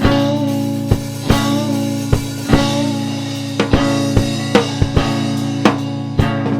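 Band music: a drum kit keeping a beat of bass drum and snare hits over held chords.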